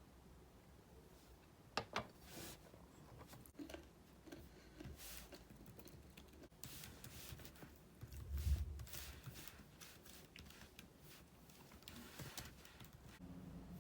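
Scattered light clicks, taps and rustles of objects being handled, with a sharp double click about two seconds in and a dull thump about eight and a half seconds in.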